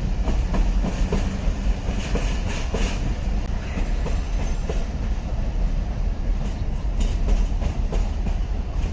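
Passenger train rolling slowly into the station, a steady low rumble with wheels clicking over rail joints.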